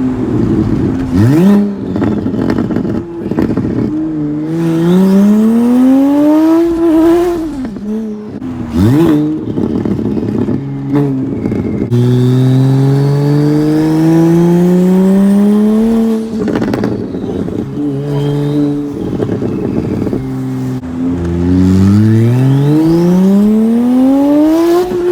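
Single-turbo BMW 335i's N54 inline-six accelerating hard through the gears. Engine pitch climbs steadily in three long pulls, falling away at each shift, with rough, noisy stretches between the pulls.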